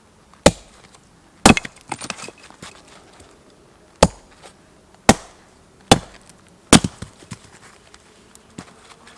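Wood being chopped: six sharp blows, unevenly spaced, some followed by smaller splintering cracks.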